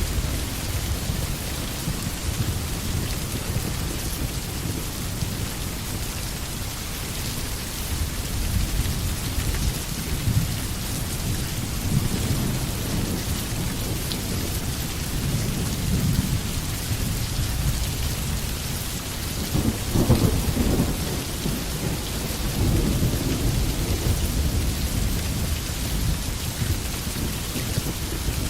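Steady rain falling on a forest, with a low rumble underneath that swells about two-thirds of the way through.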